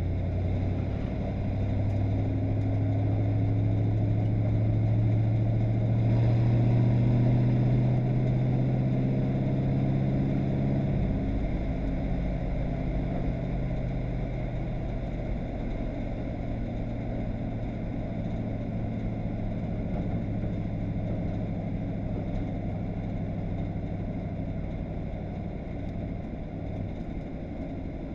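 Stock race car's V8 engine heard from inside the cockpit while driving on track. The engine note climbs slowly for about ten seconds, then drops suddenly and holds at a steady lower pitch.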